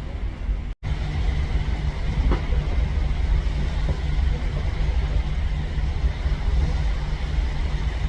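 Wind buffeting the microphone: a steady low rumble that cuts out completely for an instant about a second in.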